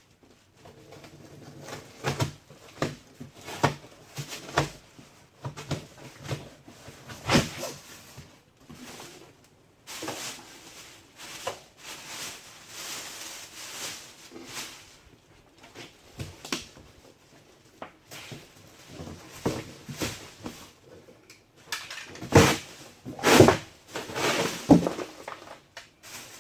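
A large cardboard shipping box being cut open and pulled away by hand: a string of knocks and clicks, a longer stretch of cardboard scraping about ten seconds in, and the loudest knocks near the end.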